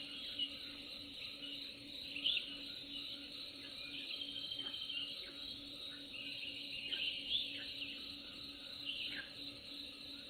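Nature ambience of a steady, high chorus of chirping insects, with short bird chirps scattered through it.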